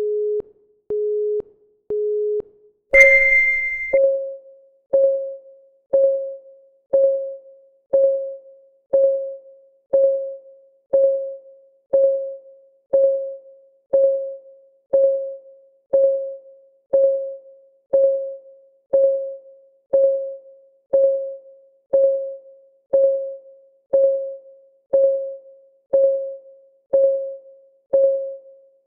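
Three short low beeps a second apart, then a louder, higher start beep, followed by a countdown timer's clock-tick sound: one clean, quickly fading tick every second.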